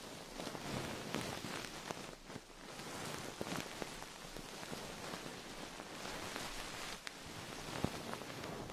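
Close-miked rustling and crackling, a dense hiss dotted with many small clicks, like rain on a surface: an ASMR trigger sound.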